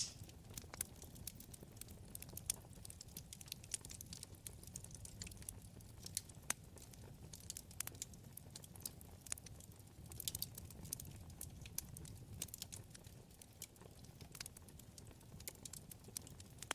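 Wood fire burning in a fireplace, crackling and popping irregularly over a low steady rumble of flame, with a denser run of crackles about ten seconds in.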